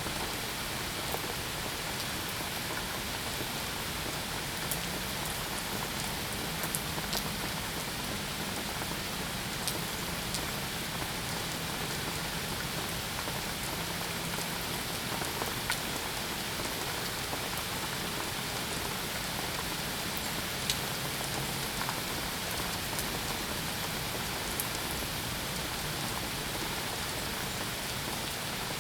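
Steady, even rain falling on a surface, with scattered sharp ticks of single drops hitting close by.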